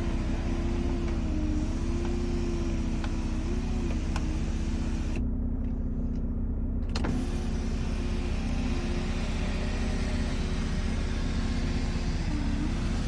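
Mercedes-Benz E300's electric sunroof motor whining as the sunroof slides for about five seconds, stopping for about two seconds, then running again for about six seconds, over the steady hum of the engine idling.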